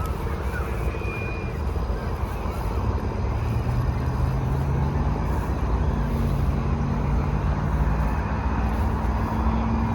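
A motor's pitched hum grows louder from about three seconds in and then holds steady, over a constant low rumble like wind on the microphone.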